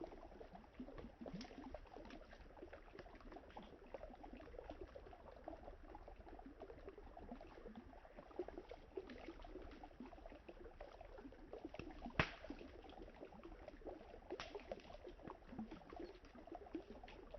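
Quiet, steady sound of river water lapping and trickling, with a few sharp crackles from burning wood in a campfire; the loudest pop comes about twelve seconds in.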